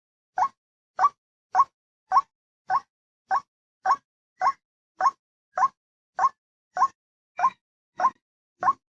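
White-breasted waterhen (ruwak-ruwak) lure call: the same short 'wak' note repeated evenly, a little under two calls a second, with silence between them.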